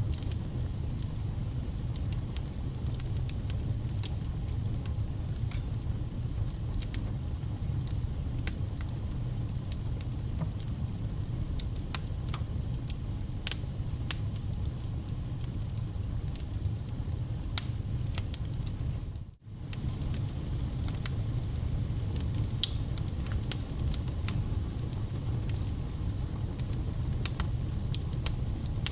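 Wood fire burning: a steady low rumble with frequent sharp crackles and pops from the burning logs. The sound cuts out for a split second about two-thirds of the way through, then resumes.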